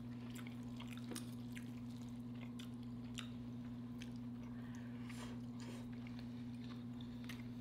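Close-miked chewing and mouth sounds of people eating braised beef short rib, with scattered soft clicks and smacks every second or so. A steady low electrical hum runs underneath.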